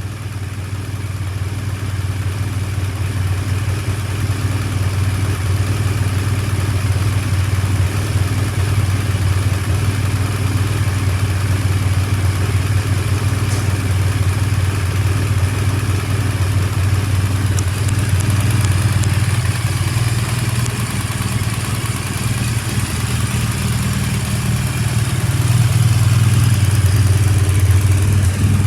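BMW R1200R's boxer twin engine idling steadily, swelling a little louder near the end.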